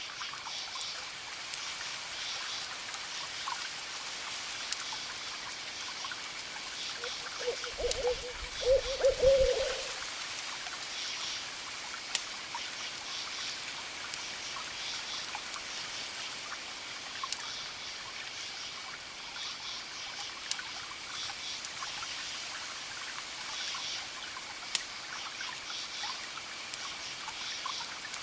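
Campfire crackling with scattered sharp pops over crickets chirping in repeated pulsed trills and a thin steady insect tone. About eight seconds in, an owl hoots, a low wavering call lasting about two seconds.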